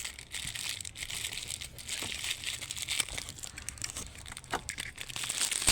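Plastic packaging crinkling and rustling while vacuum-cleaner accessories are handled, with many small clicks and crackles throughout.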